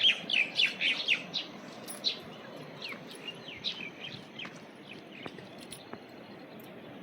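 Small birds chirping: a quick run of short downward-sliding chirps in the first second or so, then scattered calls. A steady low background noise runs underneath.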